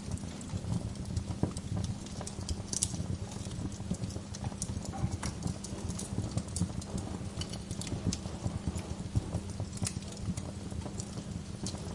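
Wood fire burning in a fireplace, crackling with irregular sharp snaps and pops from the burning logs over a low, steady rumble of the flames.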